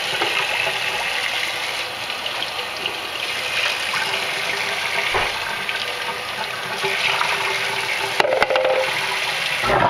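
Water running steadily from a kitchen faucet into the sink and down the drain. Just before the end, a garbage disposal motor switches on with a low steady hum.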